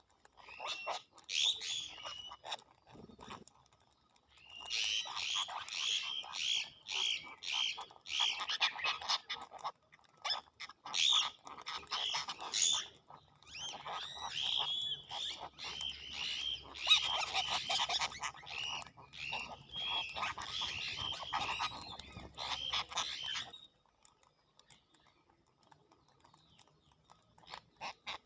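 Birds chattering in a dense run of short, harsh, rapidly repeated calls that stops a few seconds before the end.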